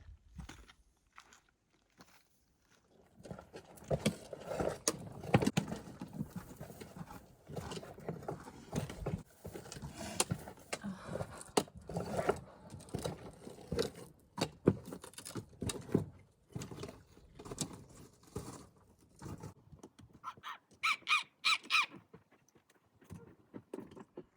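Hiking footsteps crunching and scuffing on rocky trail, uneven and irregular. Near the end comes a quick run of four or five short, high squeaks.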